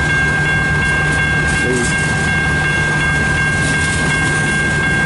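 Freight train cars rolling past: a steady low rumble of wheels on rail with a steady high-pitched squeal over it.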